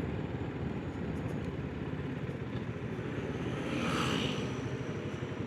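Single-cylinder 650 cc engine of a BSA Scrambler motorcycle running steadily at low revs. A brief swell of hiss comes about four seconds in.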